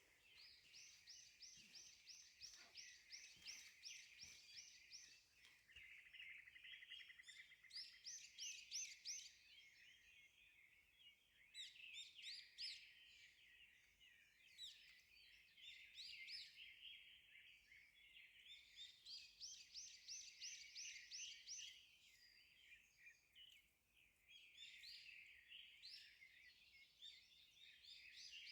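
Faint outdoor chorus of wild birds chirping, with overlapping rapid series of high, repeated notes and a brief fast trill.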